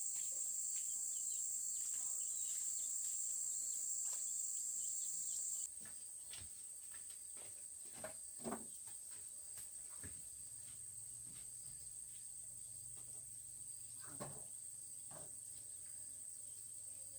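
Insects chirring in a steady, high-pitched drone that drops abruptly in loudness about six seconds in and carries on quieter. Scattered soft clicks and a few light knocks are heard over it.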